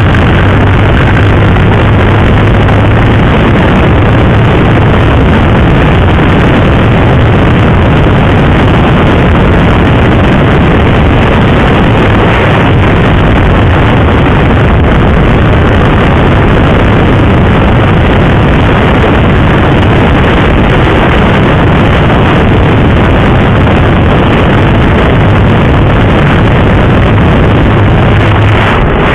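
Motorcycle riding at speed: loud, steady wind rush over the microphone, with the KTM RC 390's engine running underneath as a low hum that stands out more at the start and near the end.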